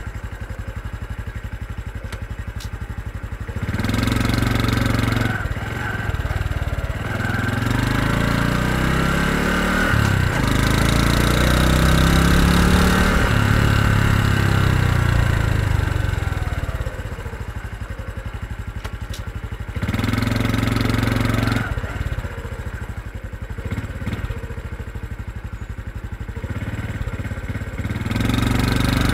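Honda CT125 Hunter Cub's single-cylinder engine heard from the rider's seat: idling, then pulling away with its pitch climbing in steps as the revs build, easing off with falling pitch, idling again, and pulling away twice more.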